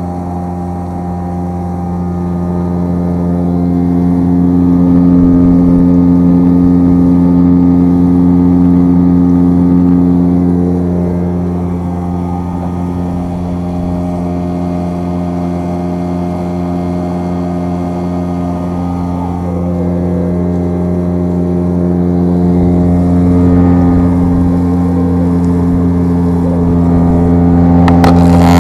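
Speeda 6 outboard motor running steadily under way, its pitch holding level while it gets louder for several seconds, eases off, and swells again near the end.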